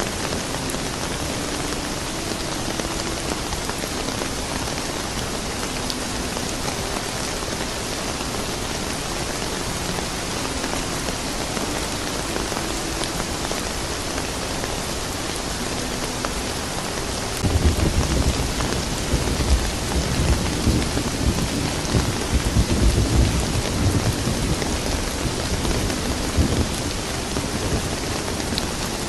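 Steady rain falling, with a roll of thunder that breaks in suddenly about two-thirds of the way through and rumbles on, rising and falling, for about ten seconds before fading back under the rain.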